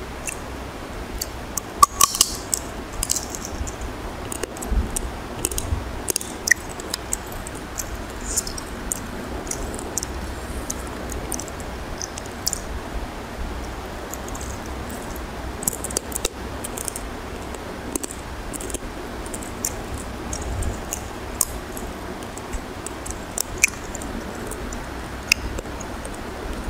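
Close-miked eating by hand: chewing with many short wet mouth clicks and smacks scattered irregularly throughout, with fingers working through curry and rice on a plate.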